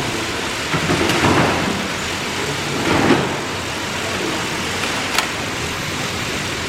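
Plarail battery-powered toy trains running on plastic track: a steady rumbling rattle of motors and wheels, with a few louder clacks.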